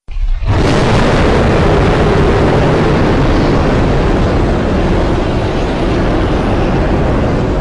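A custom-made monster roar sound effect: a loud, rumbling, unpitched roar that starts suddenly out of silence and holds steady for about seven seconds, beginning to fade at the very end.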